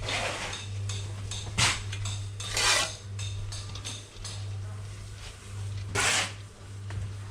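Steel trowel scraping mortar, four short scrapes with clinks, over a steady low hum.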